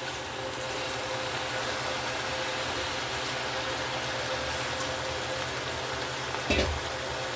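Steady hiss and low rumble of the spinach rice pot steaming over the burner. About six and a half seconds in there is a single short knock.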